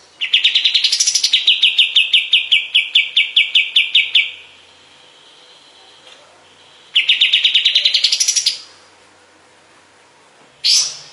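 Kapas tembak songbird singing: two long, rapid trills of repeated notes at about seven or eight a second, each starting with a rising flourish, then one loud sharp upward-sweeping note near the end.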